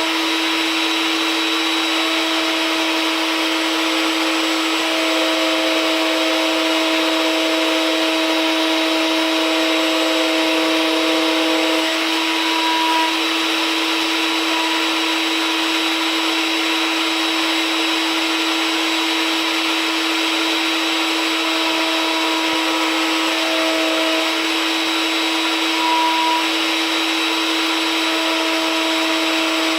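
Table router with a 1/2-inch spiral upcut bit running with a steady whine while flush-trimming a wooden guitar neck along a template.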